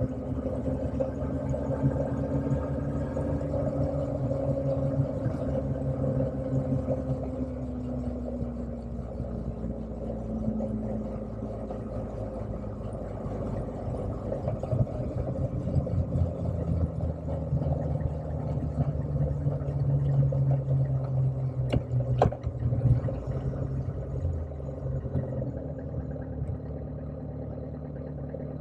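Motorcycle engine running on the move, its pitch falling over the first several seconds as it slows, then climbing again about halfway through as it speeds up. A couple of sharp clicks come near the end.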